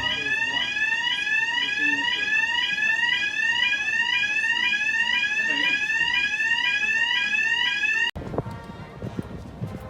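Electronic alarm sounding a repeated rising sweep tone, about two sweeps a second, that cuts off abruptly about eight seconds in, followed by fainter street noise.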